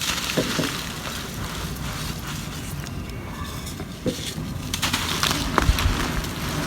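Dry, crusted ocean mud being crumbled, a continuous crisp crackling with a few sharper snaps, clustered around the middle and late part.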